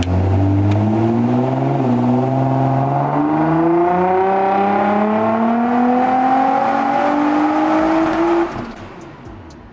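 Nissan GT-R Nismo's twin-turbo V6 making a full-throttle pull on a hub dyno, its note rising steadily through the revs, then cutting back about eight seconds in as the throttle closes. It breathes through a full titanium aftermarket exhaust with the stock catalytic converters kept: not super loud, but you can hear it.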